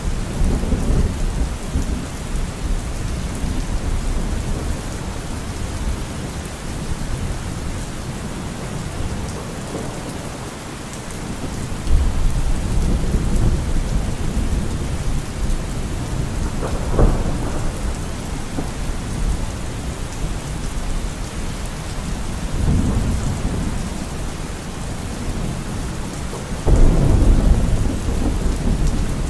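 Rain falling steadily, with several deep low rumbles that swell and fade, the loudest one near the end.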